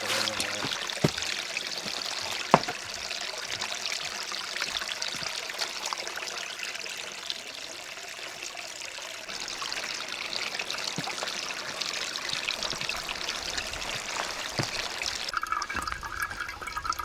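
Steady trickle of running water, with a few sharp clicks early on.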